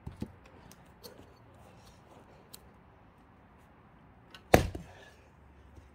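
An axe strikes a thick, unseasoned pine log once, about four and a half seconds in: a single sharp, loud knock with a brief ring. A couple of lighter knocks come near the start.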